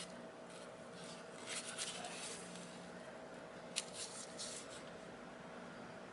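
Faint clicks and short scrapes of small parts being handled, a sharper click near the middle, over a low steady hum.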